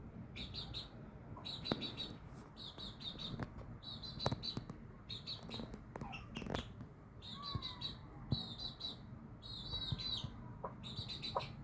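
Young cockerel chick calling: short high chirping trills repeated about once a second, with a few faint knocks in between.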